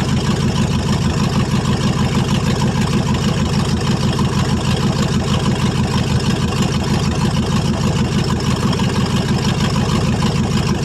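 1995 Ford F-150's 5.8-litre (351) V8 running steadily with a fast, even pulsing beat. It is running with two cylinders not firing, which the owner puts down to a blown head gasket or a cracked head.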